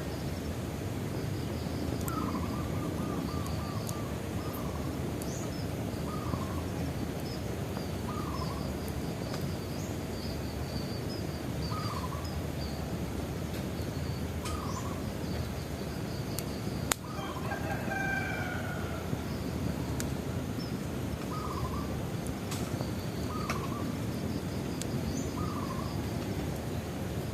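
Bonfire burning with a steady low rush and scattered sharp crackles, one louder pop about two thirds of the way through. Birds call over it: a short note repeated every couple of seconds, with higher chirping throughout.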